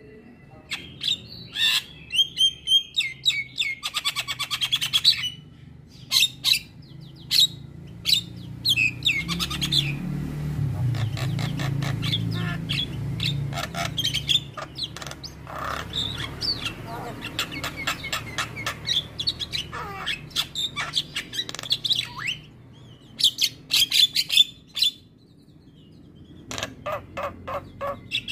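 Javan myna (jalak kebo) chattering: bursts of rapid clicking rattles and harsh squawks, with a denser run of continuous chatter through the middle.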